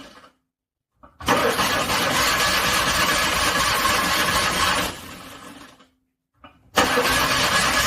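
Car engine being cranked over by its starter in freezing cold. One cranking burst of about three and a half seconds starts about a second in and fades out. After dead silence, another burst starts near the end.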